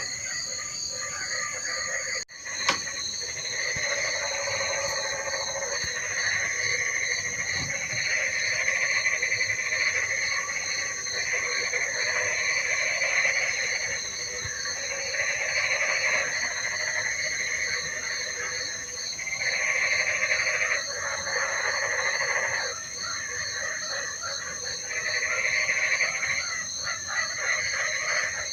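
A chorus of frogs calling, swelling and fading in waves every few seconds. Under it run a steady high insect trill and a fast-pulsing one. There is a brief dropout and a click about two seconds in.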